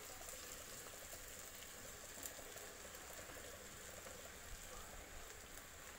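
Faint, steady sizzle of onion, potato and tomato masala frying in a kadai, with a few soft clicks.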